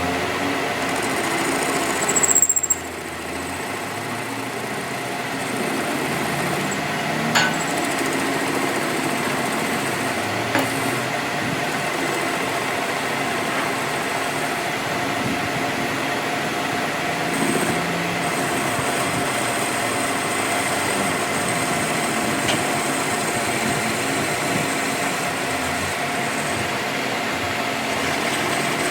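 Steady running of a machine, with a few sharp knocks and a short louder passage about two seconds in.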